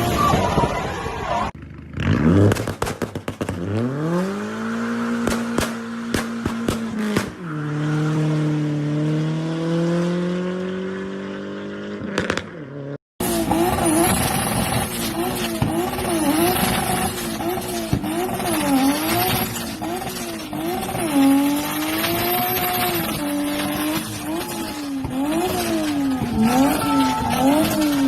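Car engines revving through their exhaust. One engine cranks, catches and climbs to a held rev, then revs up again. After a sudden cut, another engine is blipped up and down over and over, about once a second.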